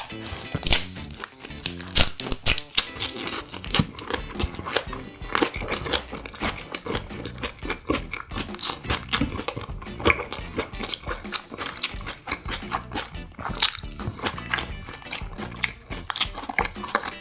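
Close-miked eating sounds: crunchy bites and chewing of a lettuce wrap with marinated duck, then chewing of fried rice, as many short crackles and mouth clicks. Background music plays underneath.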